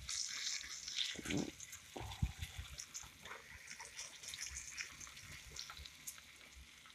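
Breaded pork chop frying in oil in a pan: a soft sizzle with scattered small pops and crackles. A couple of dull knocks about one and two seconds in, as a fork shifts the chop in the pan.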